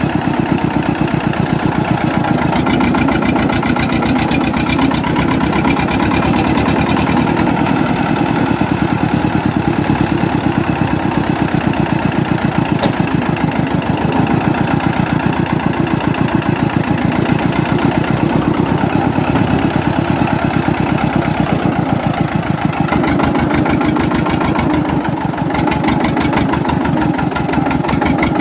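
Eicher 364 tractor's diesel engine running steadily, with a rapid even beat of firing pulses.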